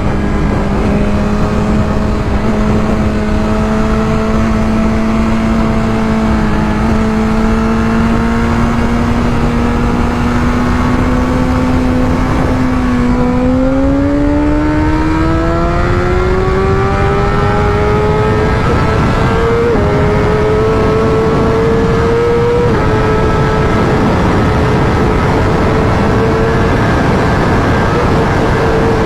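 BMW S1000RR superbike's inline-four engine running under way, with heavy wind and road noise. The engine note holds steady for roughly the first half, then climbs, with two quick upshifts about two-thirds of the way in, and settles to a steady higher note.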